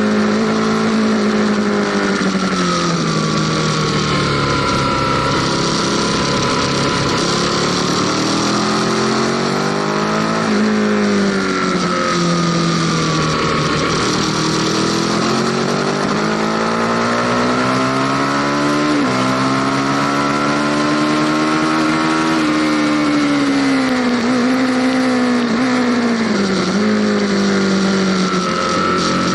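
Aprilia Tuono Factory motorcycle engine heard on board, revving up and down continuously as the bike accelerates and slows, over a steady rush of wind. The pitch climbs steadily and breaks off suddenly about ten seconds in and again near nineteen seconds, like gear changes, then falls away with short blips near the end.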